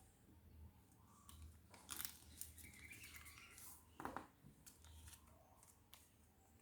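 Faint rustling and crisp little clicks of a sheet of paper being handled and creased while an origami boat is folded by hand.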